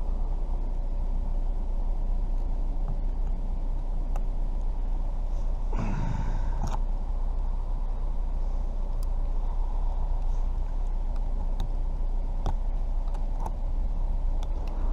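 Vehicle engine idling steadily, with scattered light clicks of small metal parts being handled and a short mutter about six seconds in.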